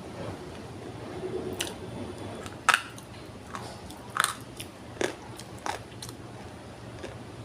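Dry multani mitti (Fuller's earth clay) being bitten and crunched. There are a handful of sharp, crisp crunches a second or so apart, and the loudest comes close to three seconds in.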